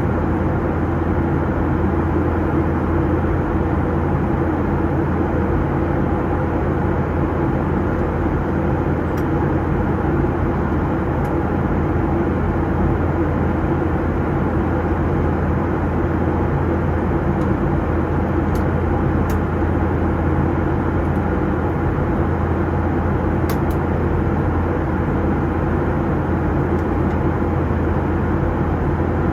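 Steady cabin noise inside a Boeing 737-800 in flight: engine hum and rushing airflow, with a constant low drone and no change throughout. A few faint small ticks sound now and then.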